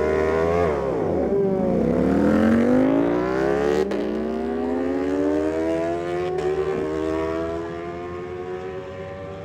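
Superbikes launched at full throttle down a drag strip, engine pitch climbing and breaking at each upshift, three shifts in all, then fading as they pull away.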